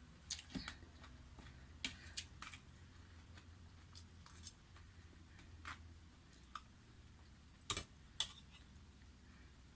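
Scattered small clicks and taps of someone eating a meal, with two louder taps close together near the end, over a low steady hum.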